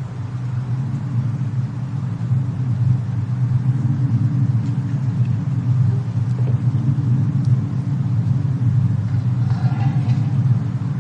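Fireplace-and-snowstorm ambience: a steady low rumble with a few faint crackling ticks from the fire, and a brief brighter crackle near the end.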